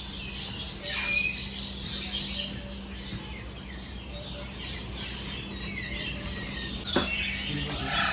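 Many birds chirping and calling at once, with short high chirps overlapping one another over a steady low hum.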